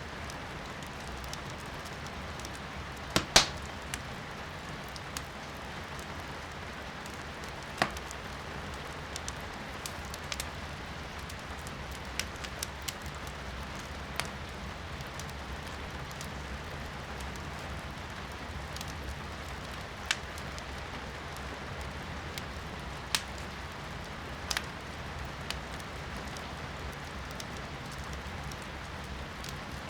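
Firewood crackling in a fireplace, with sharp pops at uneven intervals; the loudest comes about three seconds in. Under them runs a steady hiss of rain.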